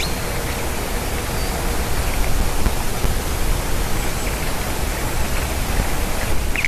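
Steady rushing noise of wind buffeting the microphone, with a few faint, short, high chirps from small birds.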